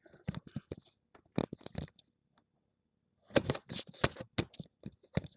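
Close handling noise: a run of sharp clicks and rustles in two bursts, the second, about three seconds in, the louder, as things are moved about right by the microphone.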